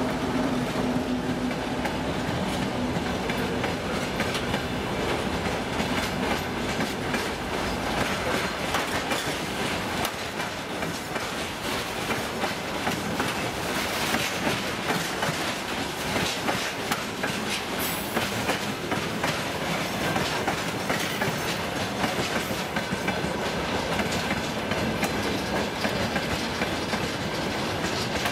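Freight wagons of a work train rolling past close by, their wheels clicking over the rail joints in a steady clickety-clack over a rumble.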